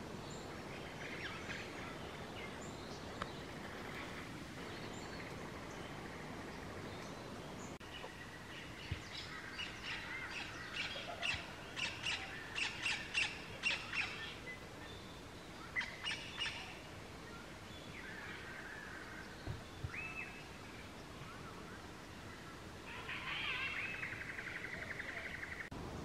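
Wild birds calling: a quick run of sharp repeated notes about ten seconds in, a short group of notes a couple of seconds later, and a fast trill near the end.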